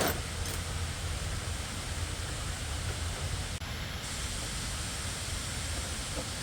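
Steady hiss-like noise with a low hum underneath, and a sharp click right at the start.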